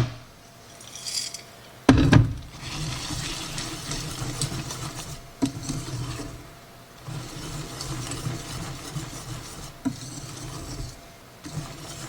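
Kitchen prep sounds: a few sharp knocks of kitchenware, the loudest about two seconds in, and long stretches of scraping and rubbing.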